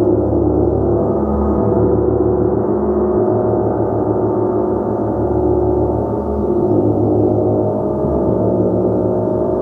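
Gong being played continuously: a dense, sustained wash of many overlapping tones that slowly swells and pulses, with no single strike standing out.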